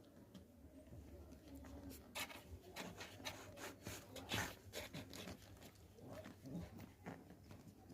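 Four-day-old Pomeranian puppies squirming, with faint irregular rustling and scratching and small puppy noises.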